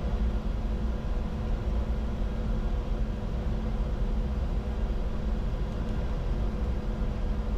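Steady cockpit noise of a Bombardier Challenger 605 on final approach: an even rush of airflow and engine with a few faint steady hums over it.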